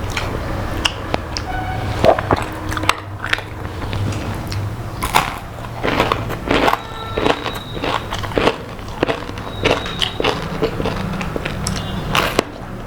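A person chewing and biting food close to the microphone, with irregular crunches and wet mouth sounds, over a steady low hum.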